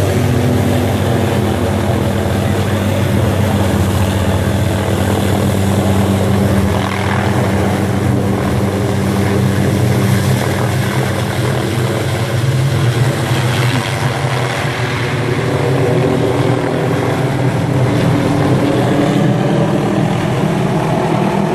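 Tree-trimming helicopter's rotor and engine running loud and steady.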